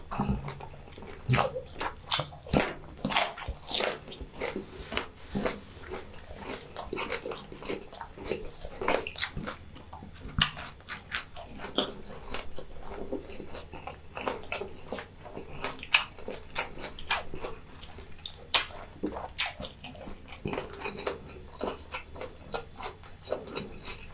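Close-miked eating sounds of a person chewing and biting food: an irregular run of wet smacks, squishes and short crunchy bites.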